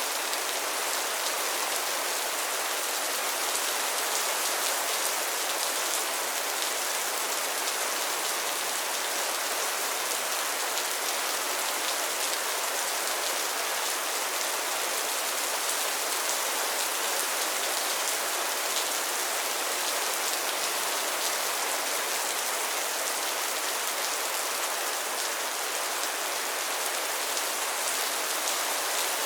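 Steady rain falling on a pond and its lily pads, a constant hiss with many fine drop patters on water and leaves.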